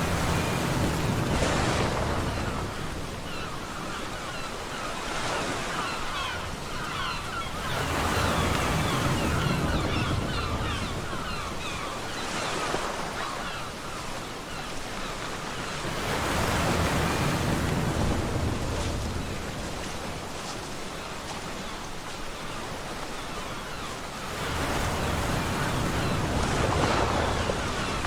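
Ocean surf breaking on a beach, swelling in slow surges about every eight seconds (four in all), with a steady hiss of washing water between them.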